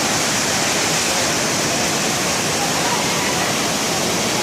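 Waterfall and stream water rushing, a steady, loud, even roar.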